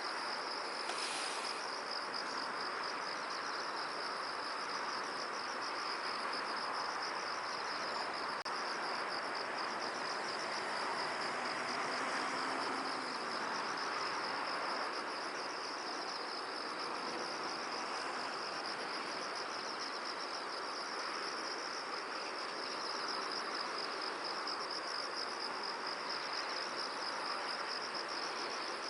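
Continuous high, fast-pulsing trill of insects, steady throughout, over a soft even hiss of wind.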